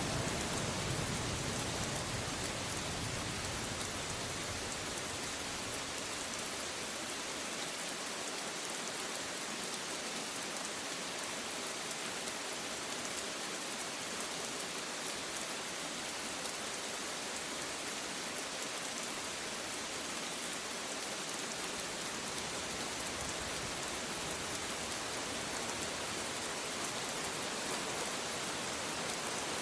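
Steady rain falling, an even hiss of many drops. A low rumble of thunder dies away in the first few seconds.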